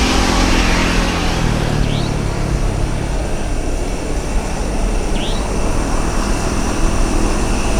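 Jet airliner passing close by: a loud, steady rush of engine noise, with engine tones falling in pitch over the first two seconds. A short high chirp repeats about every three seconds.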